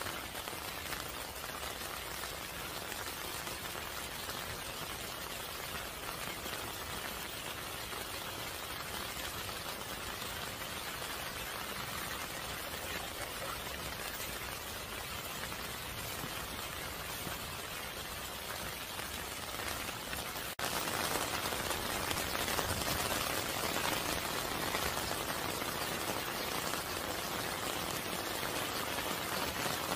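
Steady rain falling, an even hiss with no tone or rhythm, turning suddenly louder about twenty seconds in.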